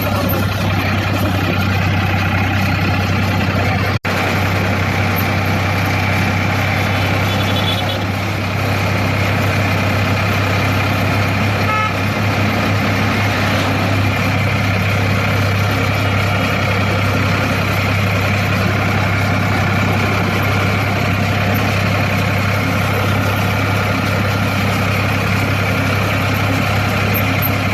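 Tractor engine running steadily under way, a constant low drone that cuts out for an instant about four seconds in.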